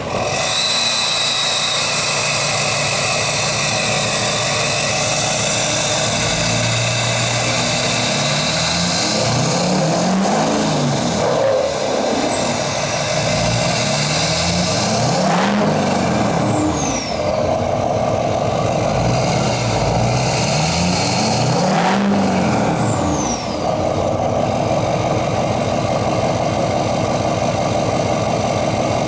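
GMC Duramax 2500's 6.6 L V8 turbo-diesel running through a muffler-deleted 5-inch straight-pipe exhaust. It idles, then is revved three times, the pitch rising and falling with each rev. A high turbo whistle falls away as each rev drops off.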